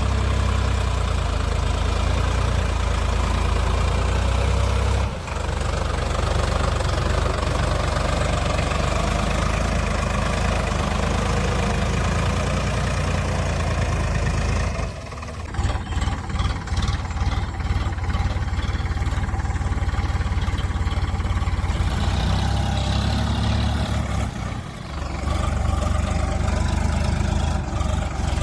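Tractor engine running steadily, with a strong low hum that dips briefly three times.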